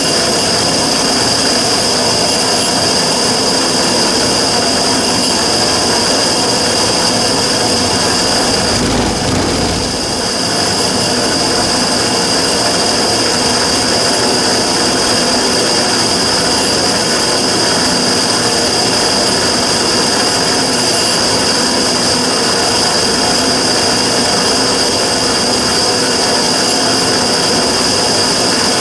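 Immersion tube burner running with a loud, steady noise and a strong high whistle-like tone: the abnormal noise (異音) being recorded. About nine seconds in it briefly dips with a short low rumble, then settles back.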